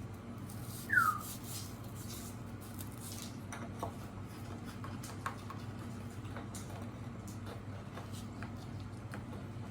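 A pet bird gives one short, falling chirp about a second in, followed by a few faint clicks and taps, over a steady low hum.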